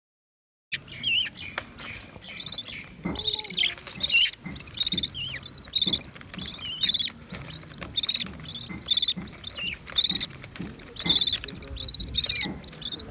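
Parrot chicks giving a busy run of high, squeaky begging calls, many per second, as they are fed. The calls start suddenly about a second in.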